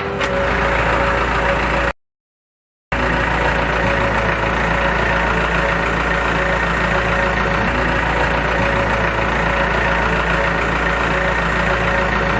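Small motor of a DIY mini tractor running steadily, with a constant whine and a low hum. It cuts out completely for about a second near two seconds in, then runs on unchanged.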